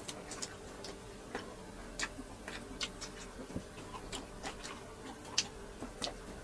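Close-up eating sounds: irregular wet mouth clicks and smacks from chewing grilled chicken, roughly two a second, over a faint steady hum.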